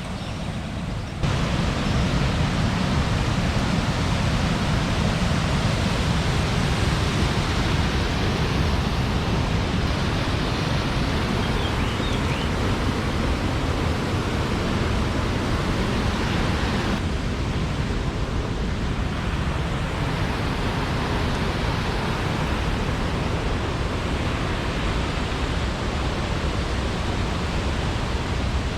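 Steady rushing noise of cascading waterfall water. It jumps up in loudness about a second in, then holds steady and heavy in the low end.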